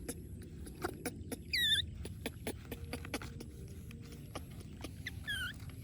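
Baby monkey giving two short high-pitched squeaks with a wavering, falling pitch, about a second and a half in and again near the end, among light scattered clicks.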